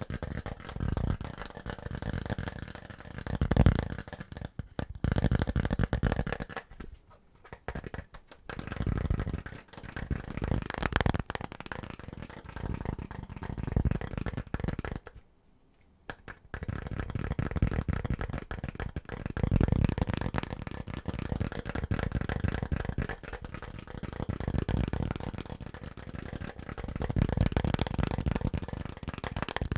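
Fast, aggressive tapping on household objects in dense, rapid runs, with two short breaks, about a quarter of the way in and about halfway.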